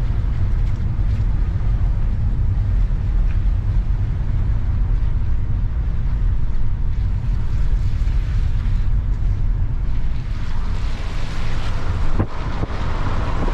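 Strong wind buffeting the microphone in a steady low rumble, with the hiss of breaking surf swelling up over the last few seconds and one short knock near the end.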